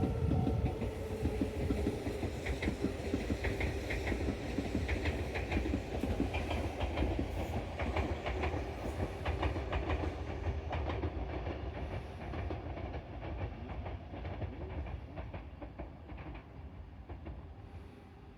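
Tobu Isesaki Line electric train running along the track, wheels clacking over rail joints with a steady rumble. The sound grows fainter in the second half as the train moves away.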